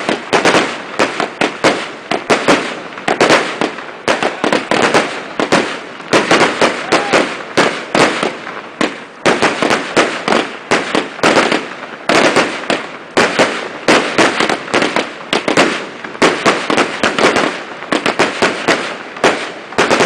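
Fireworks going off in a rapid, continuous barrage: many sharp bangs and crackles a second, with short lulls between volleys.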